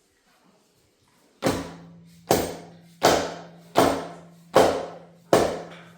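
Hammer blows on a metal engine part during a teardown: six sharp strikes at an even pace, starting about a second and a half in, with the metal ringing on a steady low note between blows.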